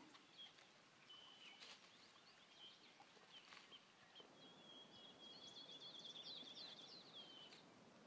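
Faint birdsong over near silence: a few scattered high chirps and a short whistled note, then a long, rapid trill of high notes through the second half.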